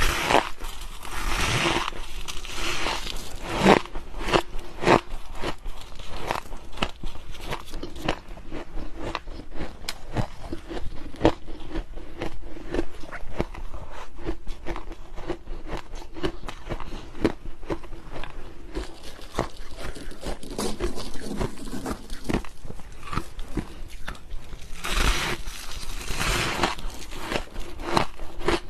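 Close-up crunching and chewing of powdery freezer frost: many sharp, irregular crackles with noisier crunching or scraping stretches near the start and again near the end.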